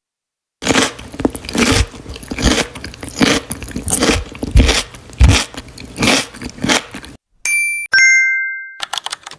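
Close-miked mouth sounds of someone biting and chewing food in uneven crunchy strokes for about six seconds. Then a two-note ding chime sound effect rings out, followed by a quick run of clicks at the end.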